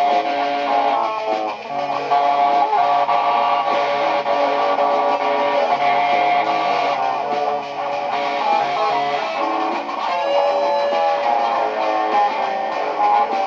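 Layered electric guitar loops playing continuously: several guitar parts stacked over one another, with low sustained notes held underneath.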